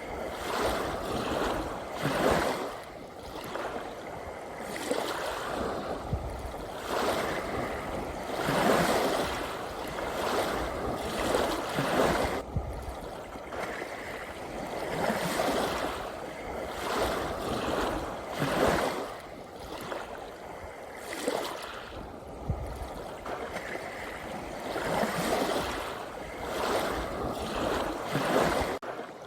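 Sea waves washing in, swelling and ebbing in irregular surges every few seconds.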